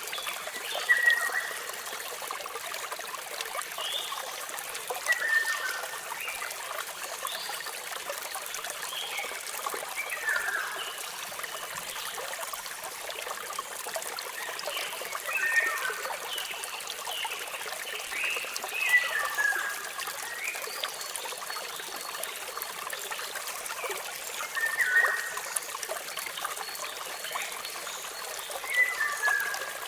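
Water falling and trickling in a steady rush, with small birds chirping over it: short falling chirps every few seconds.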